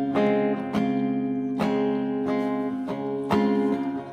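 Acoustic guitar strummed and left ringing, a new chord struck about every second, in a pause between sung lines of a song.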